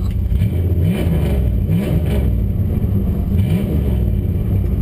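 1999 Dodge Durango's 5.9-litre (360) V8 running, its throttle blipped three times in quick revs, about a second, two seconds and three and a half seconds in, between stretches of steady running.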